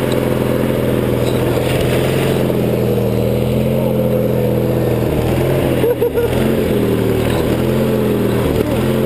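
Riding lawn tractor's engine running steadily under load while driving, with a brief dip and wobble in its note about six seconds in.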